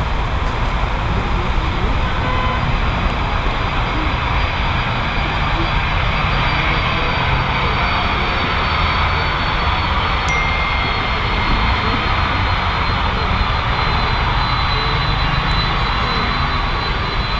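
Jet engines of a Boeing 767 freighter landing: a steady, loud rush of jet noise with a faint high whine held throughout.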